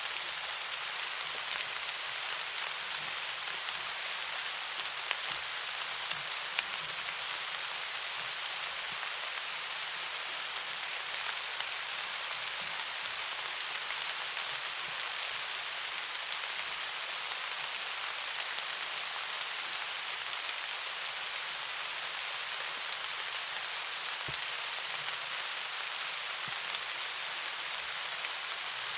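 Steady rain falling: an even hiss with scattered light ticks of single drops.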